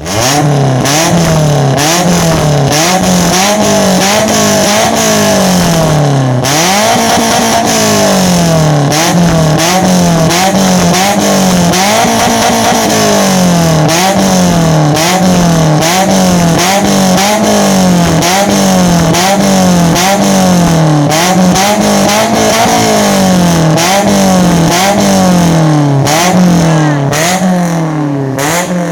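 Toyota Avanza's four-cylinder engine, breathing through a custom HKS-style racing exhaust, revved up and down over and over, about once every second and a quarter. It is loud throughout and drops off a little near the end.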